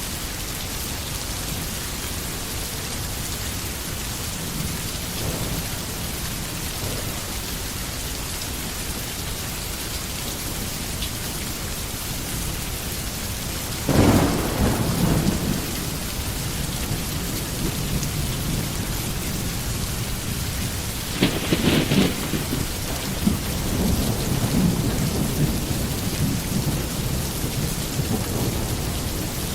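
Steady heavy rain with thunder: a sudden loud thunderclap about halfway through rumbles on for a couple of seconds, and a second crack follows several seconds later, with low rolling rumble after it.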